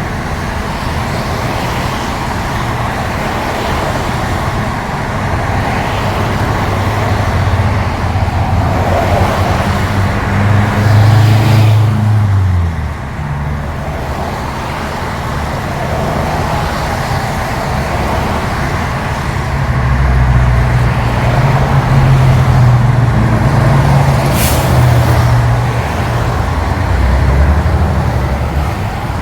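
Semi-truck's diesel engine running in the cab while moving through heavy traffic, with road noise. The engine note drops about twelve seconds in and builds again from about twenty seconds. A short hiss comes about twenty-four seconds in.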